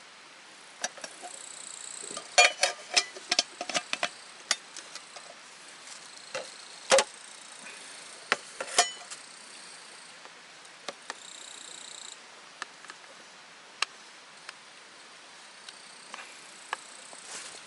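Scattered sharp clicks and knocks, bunched a couple of seconds in and again around the middle, with faint high-pitched buzzing that comes and goes.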